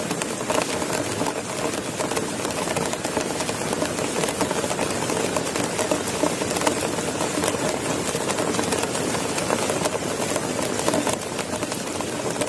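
Heavy rain falling steadily, a dense mass of small drop hits without let-up.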